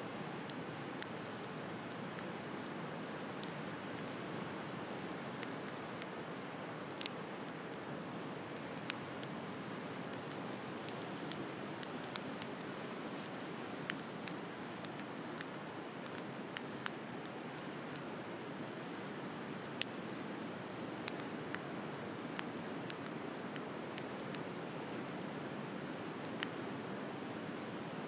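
Wood campfire crackling, with irregular sharp pops, over the steady rush of sea waves.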